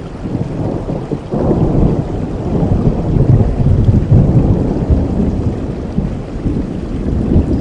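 Rain falling steadily, with a low rolling rumble of thunder that builds about a second in, is loudest around the middle and slowly fades.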